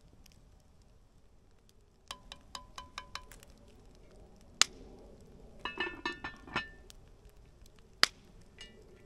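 Kitchenware clinking: five quick ringing taps, then a sharp click, a short flurry of ringing metallic clinks and one more sharp click near the end.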